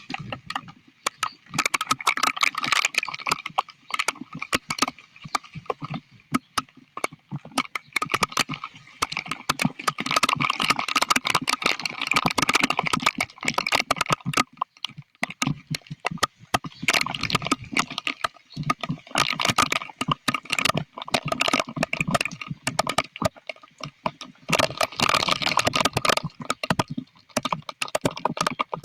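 Heavy storm rain pelting a hard surface close by, a dense patter of sharp drop impacts that swells and eases in surges every few seconds.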